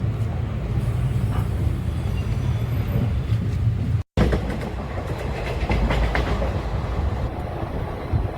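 Indian Railways passenger train running on the track: a steady low rumble of the wheels, with the clickety-clack of wheels over rail joints growing more marked in the second half. The sound drops out for a moment about four seconds in.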